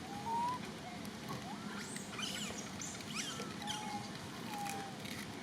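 Thin high animal squeaks and chirps: several short whistling calls, with a cluster of quick sweeping chirps about two to three and a half seconds in.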